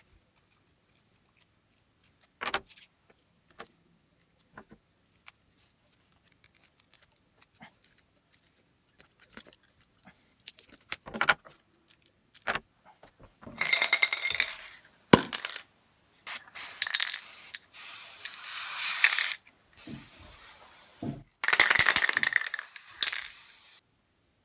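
Small hard parts clicking and clinking as they are handled, then several bursts of hissing, each one to three seconds long.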